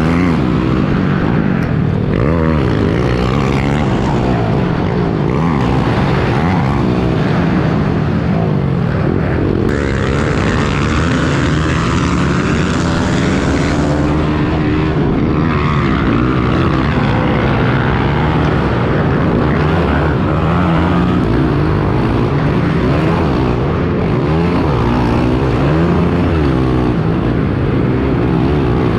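Several small four-stroke pit bike engines revving up and down at once as the bikes ride a dirt track, their pitches rising and falling and overlapping throughout.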